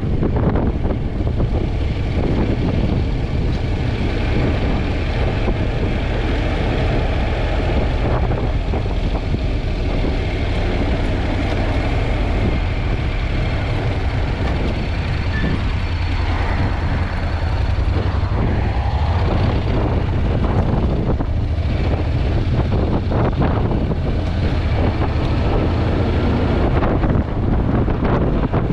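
Heavy wind buffeting on the camera microphone of a moving Honda NC750X motorcycle, with the motorcycle and road running underneath as a steady vehicle noise.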